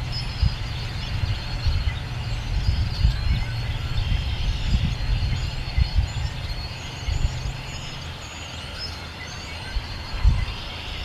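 A dense, steady chorus of spring peepers calling, with scattered short bird chirps above it. Wind buffets the microphone throughout, and a low steady hum stops about eight seconds in.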